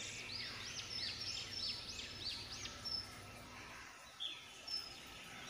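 A bird singing outdoors: a quick run of about seven repeated arching chirped notes over the first three seconds, then two or three single chirps near the end, over faint background noise.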